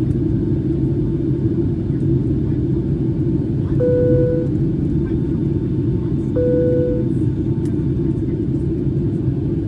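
Steady low rumble of a Boeing 757-300's engines and airflow heard inside the passenger cabin. Two short single-tone cabin chimes sound about two and a half seconds apart, near the middle.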